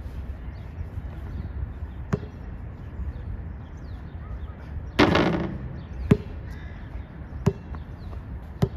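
A basketball bouncing on an outdoor court: single sharp thuds at uneven gaps of a second or more, with a louder, longer knock about five seconds in. Wind rumbles on the microphone throughout.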